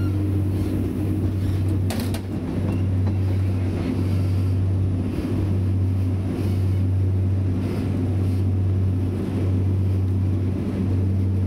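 Class 175 diesel multiple unit on the move, heard from inside the passenger saloon: a steady low drone from the underfloor diesel engine and running gear, with one sharp click about two seconds in.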